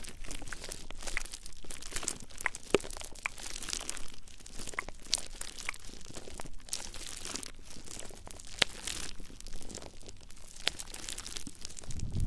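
Close-miked ASMR ear cleaning and rubbing on a microphone: dense, irregular crackling and scratching, like crinkling material, with no voice.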